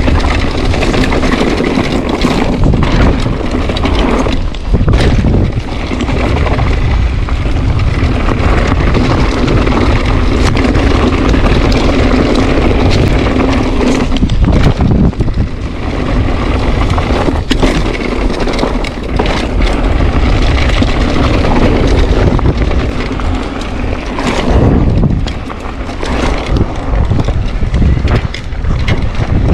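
Wind rushing over the microphone of a mountain bike ridden fast down a rough trail, with the bike rattling and knocking over the rocky ground many times.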